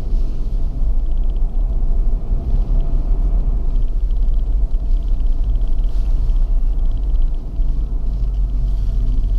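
Steady low rumble of a car driving, heard from inside the cabin, with faint clusters of light ticking repeating every second or so.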